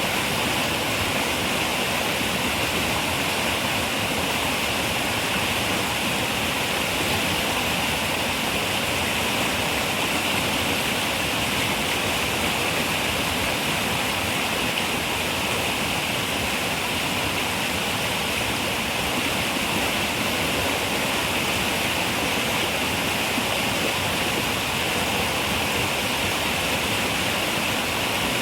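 River water running steadily, a continuous even rushing with a bright hiss.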